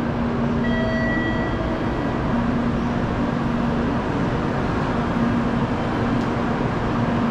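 Steady hum and rush of a Sanyo Shinkansen Sakura train standing at the platform, with a low steady tone that drops out now and then.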